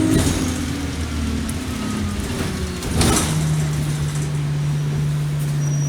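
Alexander Dennis Enviro200 bus engine running, its note falling away and then settling into a new steady hum. There is a short burst of noise at the start and another about three seconds in.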